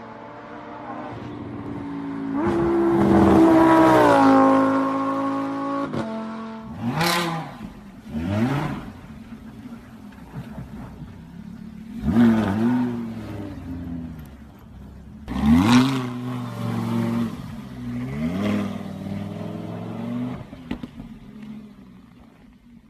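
Lamborghini Huracán V10 engine revving: a long loud rev that climbs and holds a few seconds in, then a string of about five quick, sharp rev blips, each rising and falling fast, with the engine running between them.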